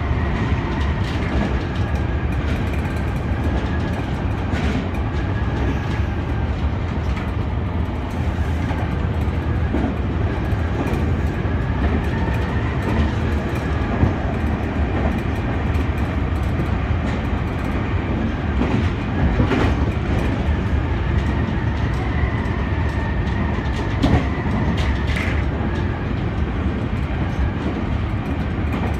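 Senboku Rapid Railway 7020-series electric train running at speed, heard from the cab: a steady rumble of wheels on rail with clickety-clack at the rail joints, a few sharper clacks, and a thin high whine that comes and goes.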